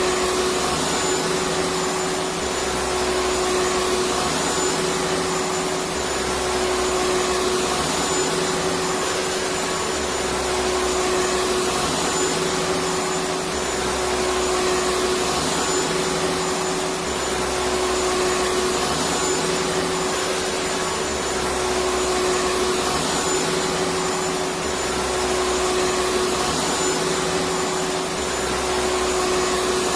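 Electric vacuum cleaner running continuously: a steady rush of air with a constant motor hum. The low rumble swells gently about every three and a half seconds.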